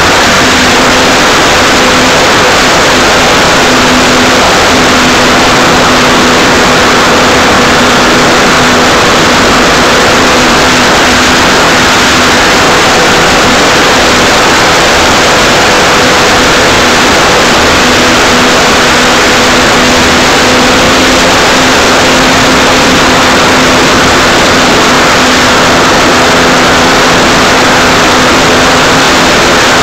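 The electric motor and propeller of an Art-Tech Cessna 182 radio-controlled model plane, heard through a tiny keychain camera on its nose. A steady drone with a held tone sits under loud wind rush at a constant level.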